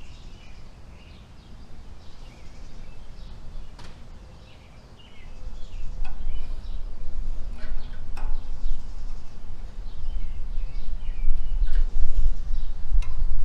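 Small songbirds chirping repeatedly in the background, with a few light knocks. From about five seconds in, a loud, uneven low rumble rises and stays.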